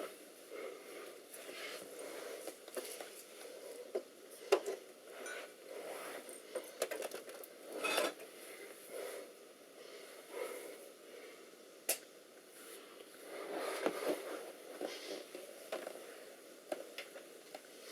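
Handling noises from plugging in a monitor's cable: scattered light clicks and knocks with rustling in between.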